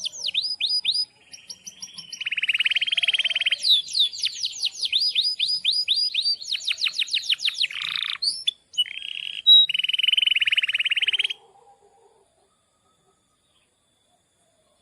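Domestic canary singing: series of quick downward-sweeping whistled notes alternating with fast, dense trilled rolls. The song breaks off about three-quarters of the way through.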